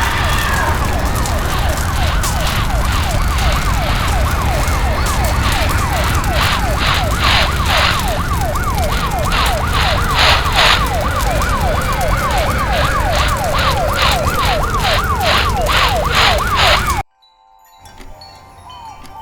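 Emergency vehicle siren on its fast yelp setting, sweeping up in pitch about three times a second over a low engine and traffic rumble, with a second pulsing higher tone joining in. It cuts off abruptly near the end.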